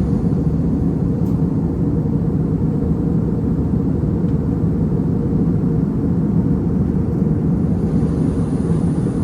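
Steady cabin noise of an airliner in flight: an even, low rush of engines and airflow with no changes.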